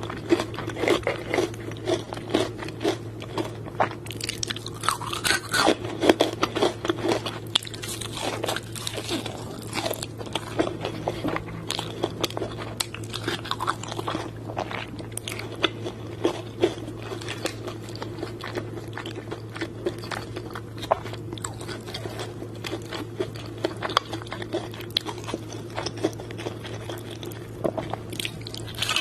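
Close-up crunching bites and chewing of crispy KFC fried chicken, the crackly crunches loudest and thickest in the first several seconds, then giving way to softer, sparser chewing. A steady low hum runs underneath.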